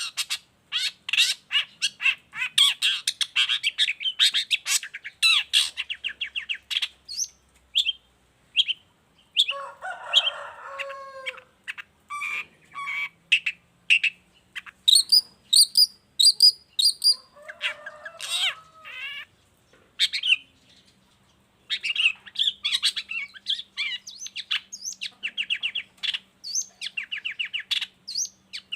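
Long-tailed shrike singing a rapid, varied chattering song of quick high notes, broken by harsher, lower rasping phrases about ten and eighteen seconds in.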